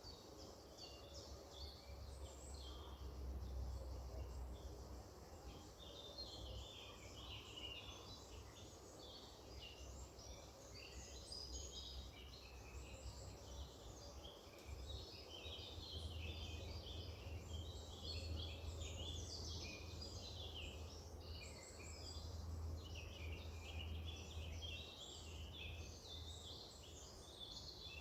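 Many small birds chirping and twittering at once in a dense, overlapping chorus, over a low steady rumble.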